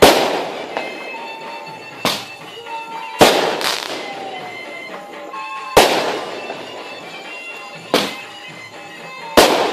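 Aerial fireworks bursting: about seven sharp bangs a second or two apart, each trailing off in a fading echo. The first bang is the loudest.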